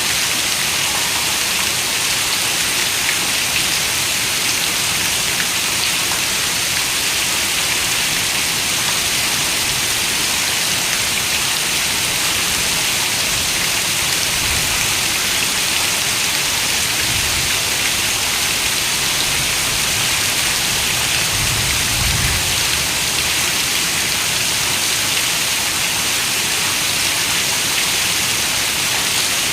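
Steady rain falling, an even dense patter with no pauses. A few soft low rumbles come through past the middle.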